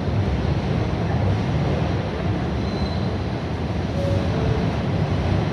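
New York City subway train running through an elevated station: a steady rumble of wheels and motors, with a brief faint high squeal about halfway through.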